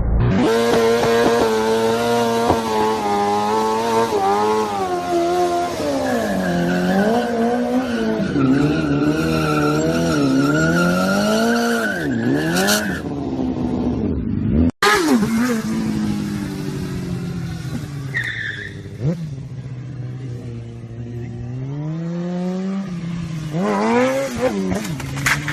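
Motor vehicle engines revving, their pitch rising and falling repeatedly, with a tyre squeal. The sound breaks off abruptly about fifteen seconds in, then engine noise picks up again.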